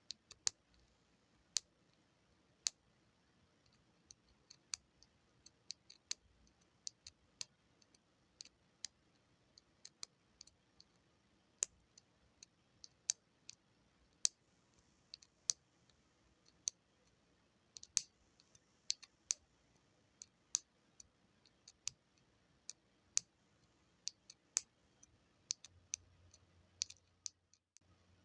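Buttons being pressed one after another: sharp, crisp clicks at an uneven pace, roughly one or two a second, with short pauses between runs.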